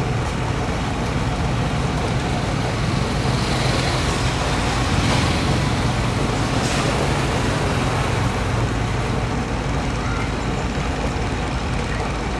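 Boat engine running steadily: a low, even hum under a noisy wash.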